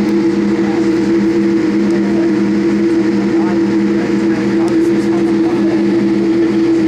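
Steady jet engine and airflow noise of a Boeing 787 Dreamliner heard inside the passenger cabin. Under a constant rushing hiss there is an unchanging low, two-toned hum.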